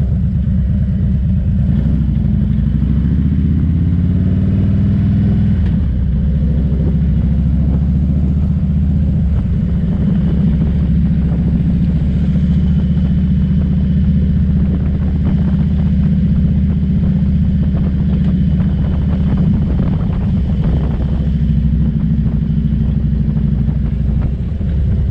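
Motorcycle engine running under way, rising in pitch as it accelerates for the first few seconds, changing gear about five and a half seconds in, then running steadily at cruising speed.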